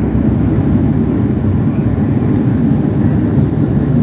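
Steady low rumble of a Dash 8 twin-turboprop airliner's engines and propellers.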